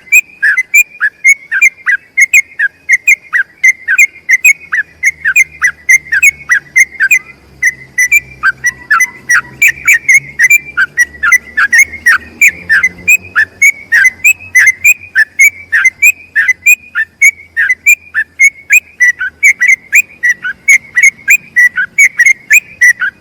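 Sooty-headed bulbul singing a long, unbroken run of rapid whistled notes, about three a second: the long 'ropel' song used as a master recording for training other bulbuls.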